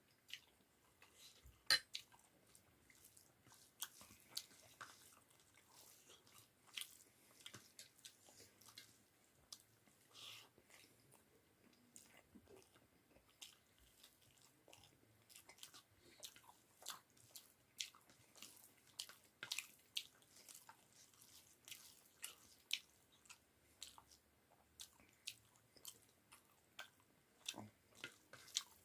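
Close-up chewing and mouth sounds of a person eating a meal of potato pakoras with rice and dal: irregular soft clicks and smacks, one or two a second, with one sharper click about two seconds in.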